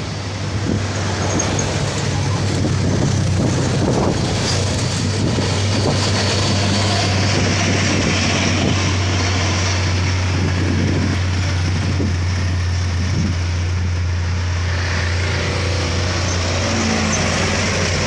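Container truck's diesel engine pulling hard as it crawls slowly up a steep bend: a steady, deep drone that holds the same pitch throughout.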